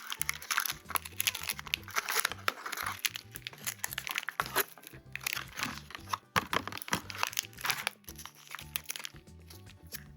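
Toy packaging crinkling and crunching as it is handled and opened, with some tearing, over background music.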